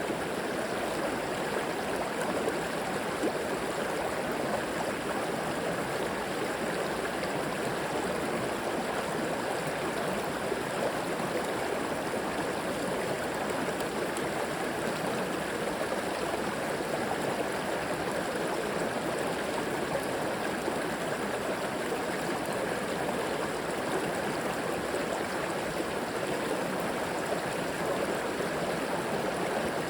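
River water flowing over rocks, a steady, even rushing and babbling.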